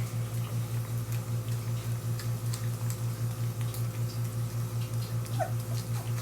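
A steady low hum pulsing about five times a second, with a few faint clicks and a brief, faint puppy squeak about five seconds in.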